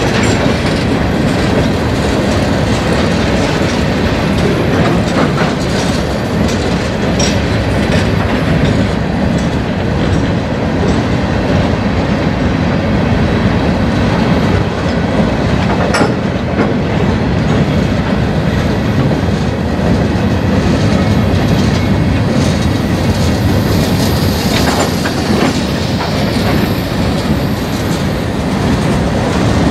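Freight train of steel gondola and hopper cars rolling past close by: a steady rumble of steel wheels on rail, with occasional sharp clicks and knocks. A faint high wheel squeal comes in near the end.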